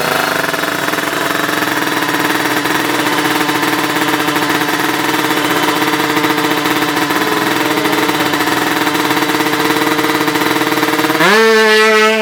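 Two-stroke Kawasaki Ninja drag-bike engine held at steady high revs, a buzzing rattle at one fixed pitch. About a second before the end the sound jumps to a higher, clearer tone.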